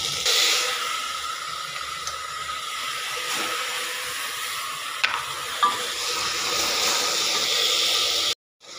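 Shallots and chopped tomatoes sizzling in hot oil in a pressure cooker, a steady frying hiss, stirred with a wooden spatula that knocks the pot a couple of times about five seconds in. The sound cuts off abruptly shortly before the end.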